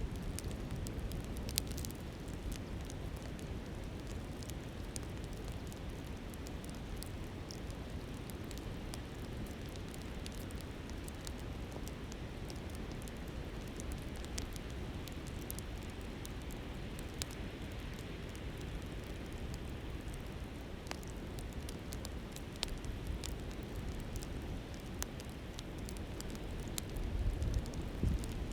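Wood campfire crackling, with scattered sharp pops, over the steady rush of a flowing river. A low rumble swells briefly near the end.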